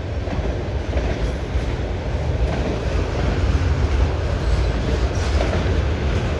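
CN freight train rolling past, its railcars, auto racks among them, making a steady rumble with the clickety-clack of wheels over the rail joints.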